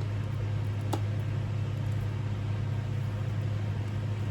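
Steady low hum, like a motor or appliance running in the room, with a single light click about a second in.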